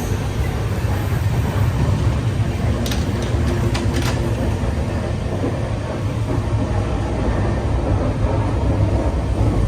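Moving passenger train heard from inside the coach: a steady low rumble, with a few faint clicks about three to four seconds in.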